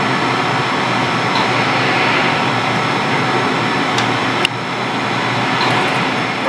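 Steady rumble of O-scale three-rail model trains running on the layout, with a single sharp click about four and a half seconds in.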